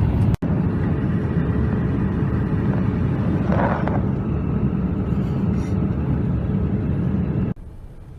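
Steady low roar of an airliner cabin in flight, the engine and airflow noise heard from a passenger seat. The roar cuts off suddenly near the end, leaving only quiet room tone.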